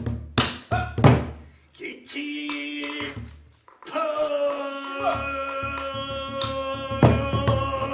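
Pansori singing with buk barrel-drum accompaniment. Two sharp drum strikes come in the first second or so, then a male voice sings a short phrase and holds a long note from about four seconds in. Another drum stroke falls about seven seconds in.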